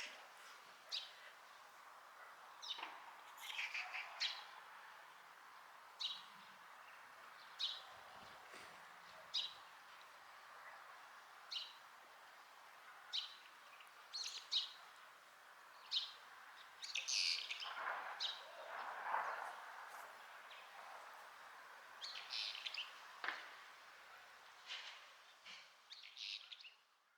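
A bird chirping over and over, faint short high calls about every one and a half to two seconds, over a steady outdoor background hiss. A brief, noisier sound comes a little past the middle.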